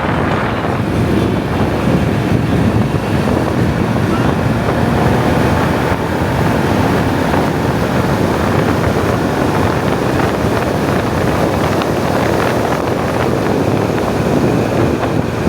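Loud, steady wind buffeting the microphone, a constant rushing noise typical of riding along on a bike.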